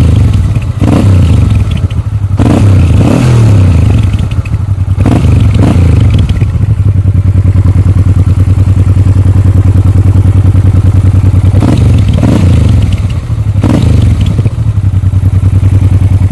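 Honda Transalp XL700's V-twin engine idling loudly through its exhaust with a deep, even pulse. It is revved in several quick blips during the first five seconds and twice more near the end.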